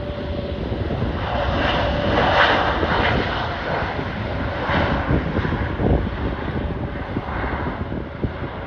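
Jet airliner engines rushing past, swelling to their loudest about two and a half seconds in and easing off, with a faint steady whine, over wind buffeting the microphone.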